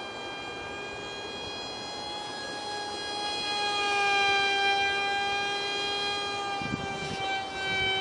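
Whine of an ultra micro RC plane's 8 mm motor and direct-drive propeller in flight: a steady high whine that drifts slightly in pitch and grows louder in the middle as the plane comes closer. There are a few low thumps near the end.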